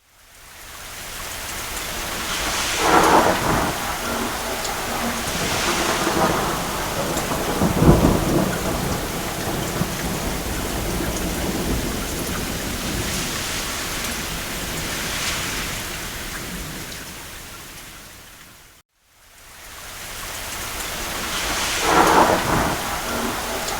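Steady heavy rain on a roof, with thunder rumbling several times; the deepest and loudest roll comes about a third of the way in. The sound fades briefly to silence about three-quarters through, then fades back in.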